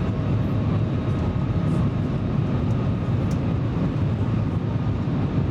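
Steady cabin noise of the Shanghai maglev train running: an even low rumble and rush with a few faint steady tones, heard from inside the carriage.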